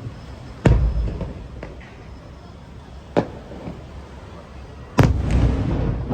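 Aerial fireworks bursting: a loud boom under a second in, a fainter one around three seconds, and another loud boom at about five seconds with a long trailing tail.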